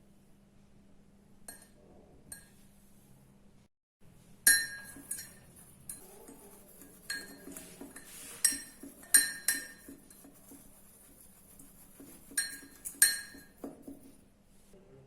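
A metal spoon clinking against a mug: two faint taps at first, then from about four seconds in a run of sharp, ringing clinks with quicker scraping strokes between them, as ingredients are mixed in the mug.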